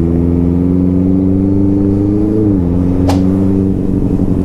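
Benelli TNT 600i's inline-four engine running steadily under way, its pitch dropping a little about two and a half seconds in, with a brief sharp tick about three seconds in.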